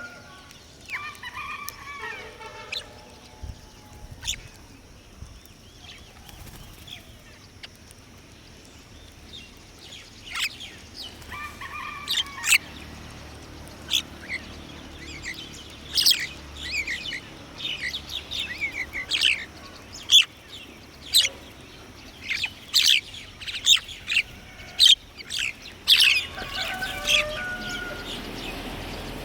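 Wild birds calling: many short, high chirps that grow busier partway through, with a few lower calls in between.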